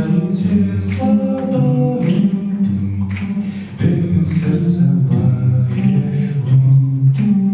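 Two men singing a song together in harmony, their voices sustaining long sung notes.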